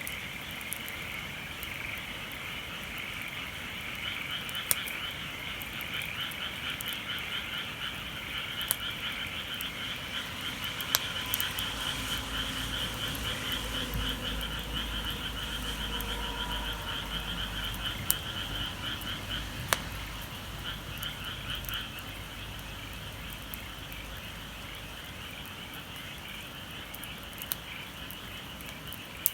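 A chorus of frogs calling, a dense fast-pulsing trill that thins out in the last few seconds. A few sharp clicks stand out over it.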